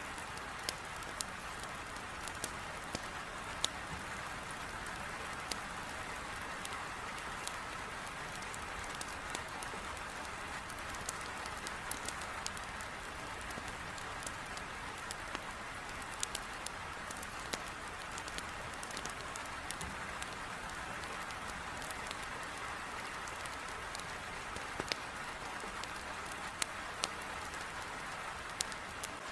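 Heavy rain as a steady, even hiss, with irregular sharp crackles from a burning wood fire in a fireplace.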